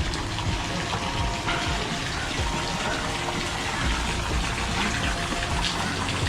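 Water splashing steadily from a decorative fountain spout that spits water out.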